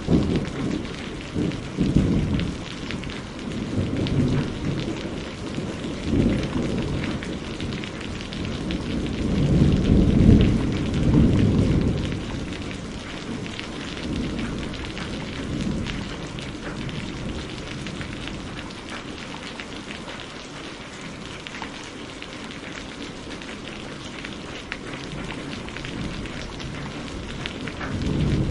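Steady rain falling, with a low rolling rumble of thunder that swells and fades several times, loudest about ten seconds in, then easing off.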